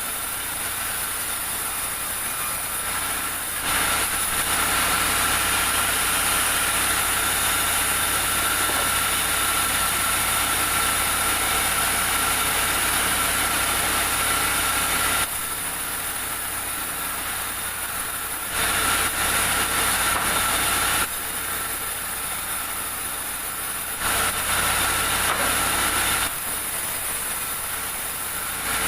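Sawmill machinery running steadily with a whine, its level jumping up and down abruptly several times.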